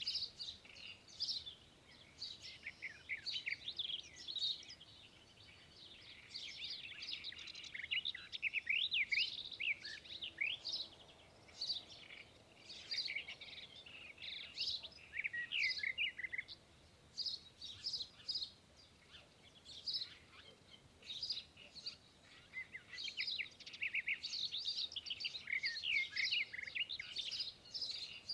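Small songbirds chirping and twittering from a television, many quick high calls that come in bursts with short pauses.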